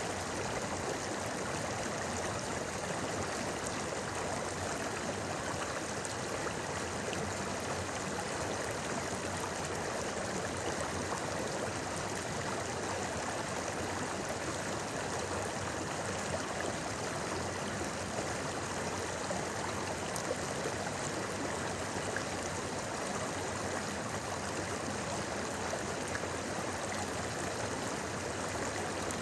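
A shallow river flowing steadily over stones, a continuous babbling and splashing at an even level.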